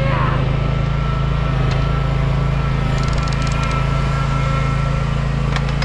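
Engine running steadily at a constant speed, with a thin steady whine over it and a few faint clicks about three seconds in.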